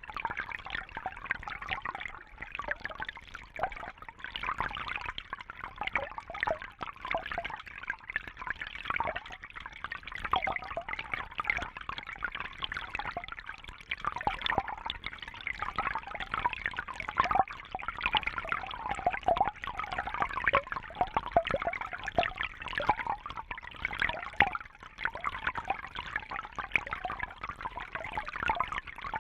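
Water trickling and splashing steadily, a dense patter of small drips and bubbles.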